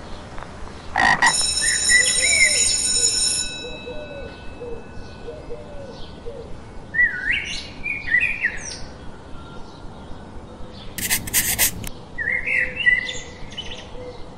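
Birds chirping repeatedly over a steady outdoor background, with a ringing tone of several steady pitches starting about a second in and lasting a couple of seconds, and a short burst of noise around eleven seconds in.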